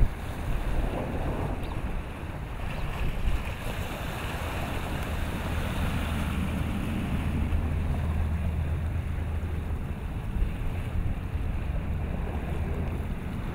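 Wind rumbling on the microphone over choppy, whitecapped water, with the wash of waves. A low steady hum joins in for a few seconds in the middle.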